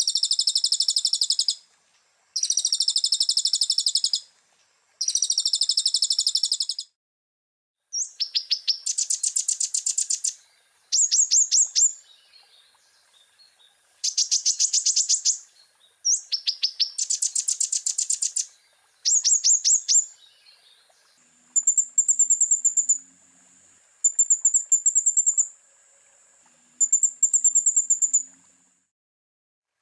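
Konin (kolibri ninja sunbird) singing in a string of high-pitched phrases, each a second or two of rapid trilling, separated by short pauses. The song is full of 'isian', phrases copied from other birds such as ciblek and cililin.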